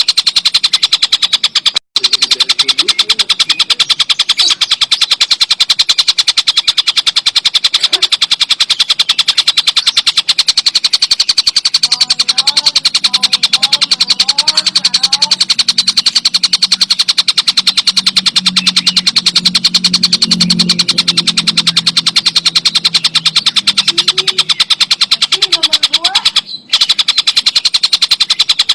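Tengkek buto (collared kingfisher) calling in a loud, very rapid, continuous high-pitched chattering rattle, with short breaks about two seconds in and near the end.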